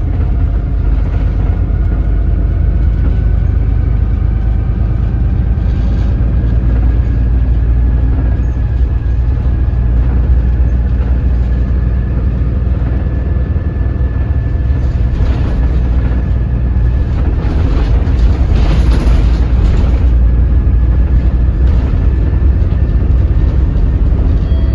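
Daewoo BS106 city bus's Doosan DL08K six-cylinder diesel running in low-speed driving, held at low revs through the gears: a deep steady rumble with a faint whine slowly rising in pitch. A louder rushing noise swells between about 15 and 20 seconds in.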